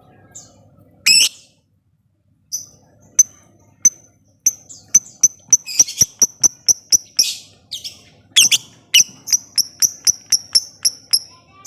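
Lovebird calling: a harsh screech about a second in, then sharp high chips that speed into a rapid run of about four to five a second, broken by harsh squawks near the middle. This is the ticking 'ngetik' call that keepers play as a bait call to set other lovebirds singing.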